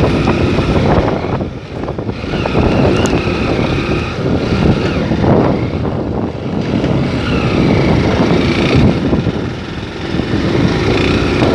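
Motor vehicle on the move, its engine note rising and falling, with wind noise on the microphone.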